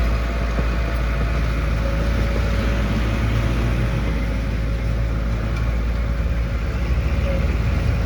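Heavy construction machinery's diesel engine running steadily: a deep, even rumble with a faint steady whine above it.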